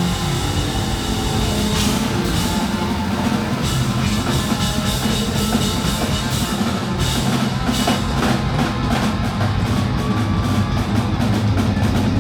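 Live hard-rock band playing loud through a club PA, with distorted electric guitars, a bass guitar holding low notes and a drum kit. The drums and cymbals hit faster in the second half.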